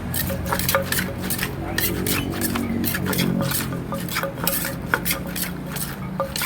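Spoon and utensils clinking and scraping against a mortar as papaya salad is mixed: quick, irregular clicks over a low background hum.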